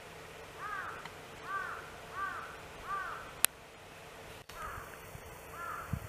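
A bird calling outdoors in a series of short, arched calls, four in quick succession in the first half and a few fainter ones later. A single sharp click sounds about halfway through.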